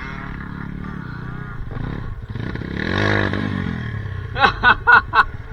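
Off-road trail motorcycle engine running, revved once about halfway with the pitch rising and falling back. Near the end come a few short shouts from a man.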